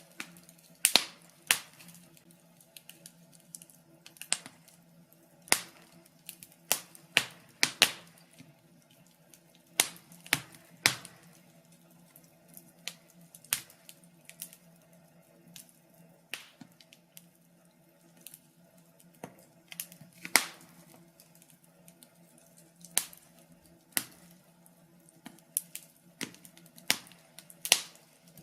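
Wood fire crackling: irregular sharp pops and snaps, a few to several a second in clusters, with gaps between them.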